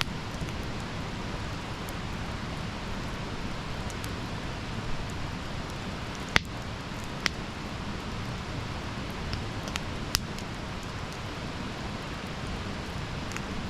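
Campfire burning: a steady hiss and rumble of flames with a handful of sharp crackling pops from the burning wood, the loudest about six seconds in.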